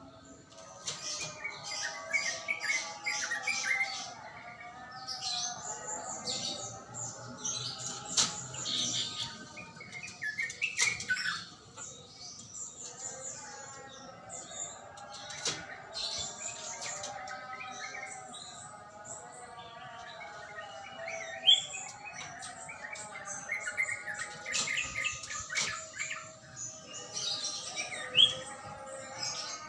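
Yellow-vented bulbul (trucuk) singing: repeated bursts of quick, bubbly chirping phrases with short pauses between them.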